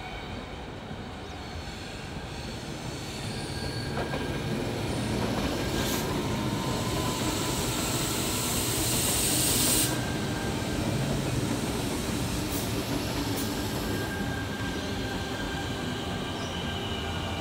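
Electric suburban passenger train rolling past at low speed, getting louder as it comes close, with thin wheel-squeal tones over the running noise. A loud hiss builds and cuts off suddenly about ten seconds in.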